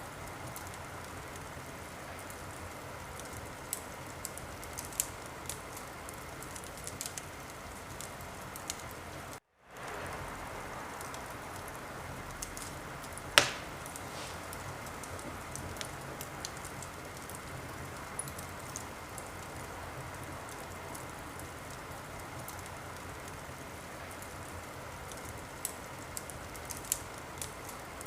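Wood fire in a fireplace burning with a steady hiss and scattered sharp crackles, one loud pop about halfway through. The sound cuts out for a split second about a third of the way in, then comes back.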